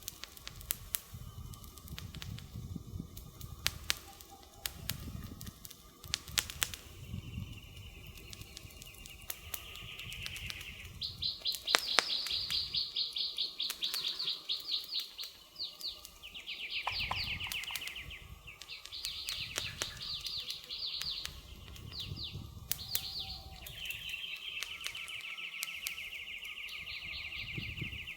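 Wood fire crackling with scattered sharp pops, while from about a third of the way in birds sing a series of high, very fast trills, each lasting a few seconds.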